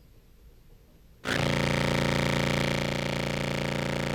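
Contrabass clarinet played through a fuzz and compressor pedal chain: a single sustained distorted low note with dense overtones, starting abruptly about a second in after near silence. The compressor is being triggered very easily.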